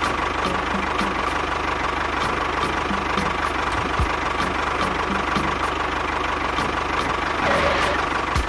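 Small motor of a miniature DIY machine running steadily, with a constant whine and regular light ticks.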